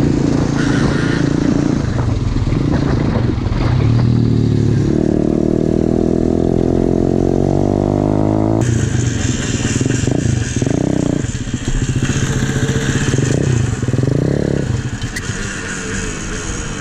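Small pit bike engine running hard, its pitch climbing steadily for a few seconds as it accelerates. After an abrupt change partway through, it is blipped up in revs twice near the end.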